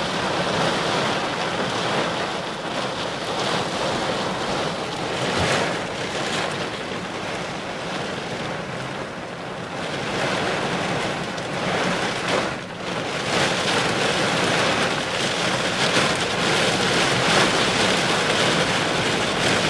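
Heavy rain and wind of a severe thunderstorm: a steady rushing noise that swells and eases, dipping briefly about two-thirds of the way through.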